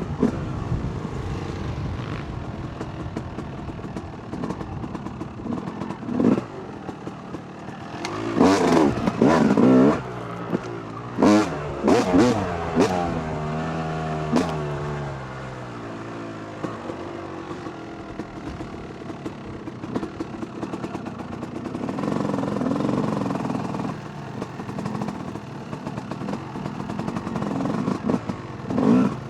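Two-stroke dirt bike engine, a 2008 Yamaha YZ250, ridden at low speed over rough ground. The throttle is blipped hard several times a third of the way in, then the revs fall away in a long slide, and it picks up again near the end.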